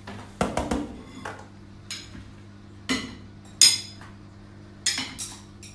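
A series of sharp clinks and knocks, about eight in all at irregular intervals, from hard objects striking one another.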